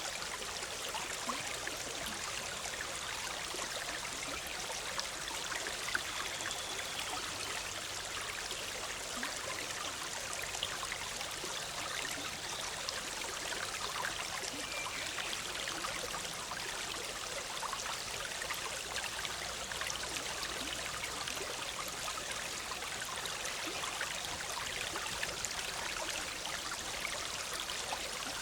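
Forest stream, the Big Sur River, bubbling and gurgling steadily over rocks.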